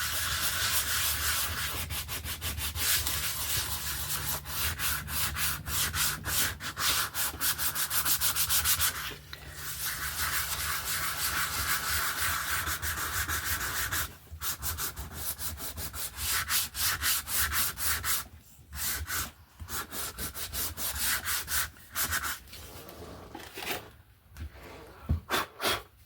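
Hand sanding of a thick cardboard board-book page with sandpaper: quick back-and-forth scratchy strokes, stopping briefly a few times. The page's surface is being roughed up so it will take gesso.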